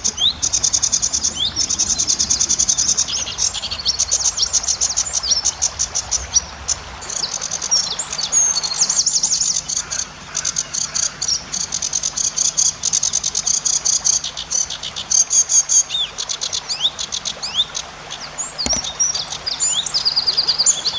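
Cici padi (zitting cisticola) calling: long runs of rapid, high, buzzy trills with short rising chirps between them, shrill and with a vibrating quality.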